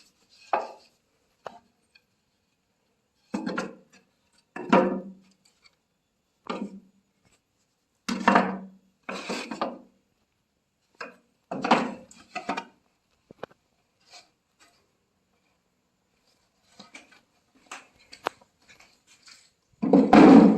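Pieces of wood being handled by hand: short, separate scrapes and knocks about a second long with silent gaps between them, the loudest near the end.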